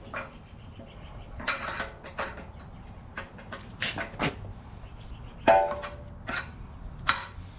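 Metal parts and tools being handled while fitting a hydraulic thumb: scattered clinks and knocks. About five and a half seconds in there is one brief ringing squeak, the loudest sound.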